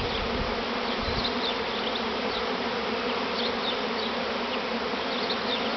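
Honeybee swarm in flight all around, the many wings making a steady, dense buzzing drone.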